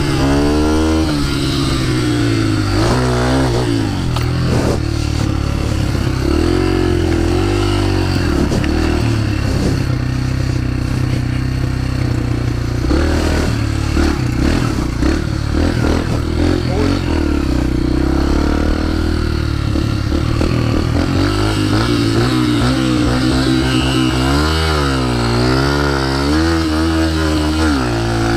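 Dirt bike engine running and revving hard, the pitch swinging up and down in repeated revs at the start and again near the end, with steadier running in between.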